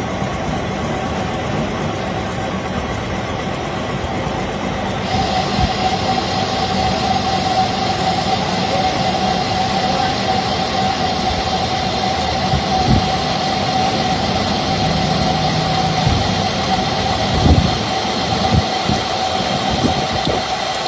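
Metalworking machine tool running steadily with a constant whine, getting louder and brighter about five seconds in.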